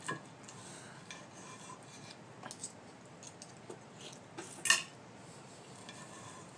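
Cutlery clinking against a dinner plate a handful of times, with the loudest clink about three-quarters of the way through.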